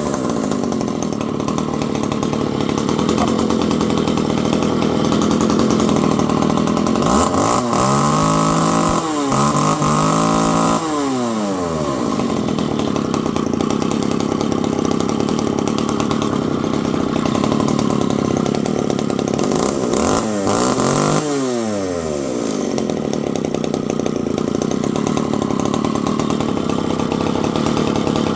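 Vintage Stihl 015L two-stroke chainsaw running, mostly held at high revs. The engine speed drops and picks back up several times about eight to eleven seconds in, and once more about twenty-one seconds in.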